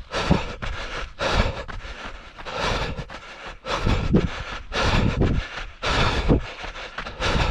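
A trail runner's breathing and footfalls in an uneven rhythm of about one to two a second, with wind rumbling on the microphone.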